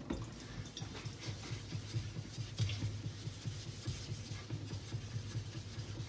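Straight razor being stroked across a wet Norton 8K waterstone: quiet, repeated scraping strokes of the blade on the stone.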